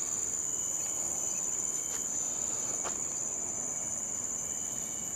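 Tropical rainforest insect chorus: a steady, high-pitched continuous drone. A couple of faint ticks come about two and three seconds in.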